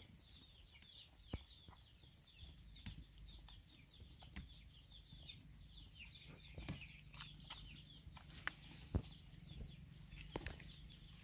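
Faint, rapid high-pitched chirping of birds, many short falling chirps in quick succession, with a few soft clicks.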